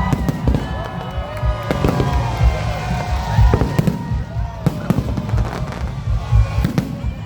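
Fireworks going off: a rapid run of bangs over a steady low rumble, with gliding whistle-like tones among them.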